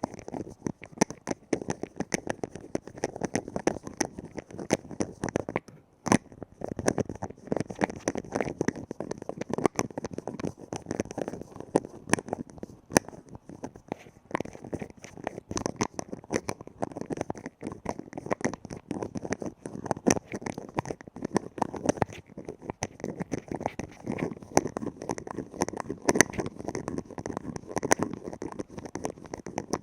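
Lids being tapped quickly and continuously, a dense stream of small clicks and taps, with a short break about six seconds in.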